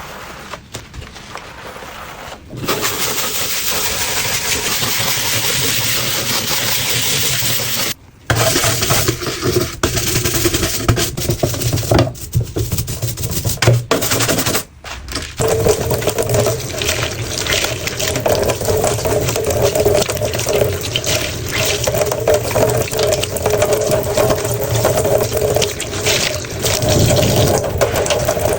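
Water running from a tap into a sink that is being cleaned with washing powder, a steady rushing that cuts out briefly twice. In the later part it carries a steady tone.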